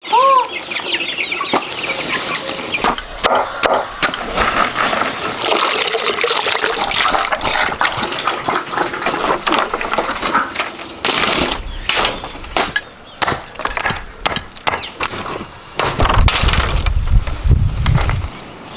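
Chickens clucking and calling, opening with a short call that rises and falls, among many sharp clicks and knocks. A low rumble lasts about two seconds near the end.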